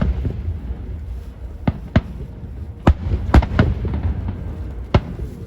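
Aerial fireworks bursting: a run of sharp bangs, about seven, some close together in pairs, over a steady low rumble.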